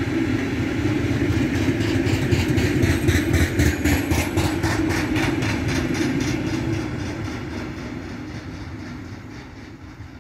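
Freight train rolling past, its wheels clicking in a fast, even rhythm over the rail joints. It fades away as the train moves off.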